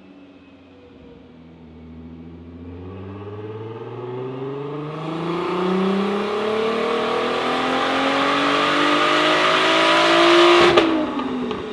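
Single-turbo VW R32's VR6 engine making a full-throttle dyno pull, its pitch and loudness climbing steadily for about ten seconds, with a hiss joining about halfway. Near the end the throttle snaps shut with a sharp crack and the revs fall away.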